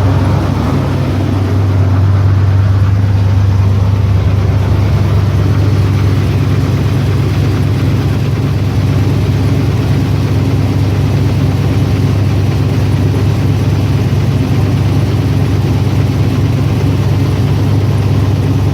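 BluePrint crate engine running steadily with a bottom-end knock, which the owner suspects is a connecting rod or crankshaft problem.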